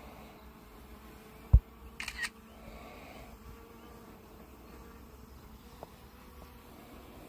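Faint steady buzzing hum of a small quadcopter drone's propellers. A sharp knock about a second and a half in, the loudest sound, and a brief crackle just after.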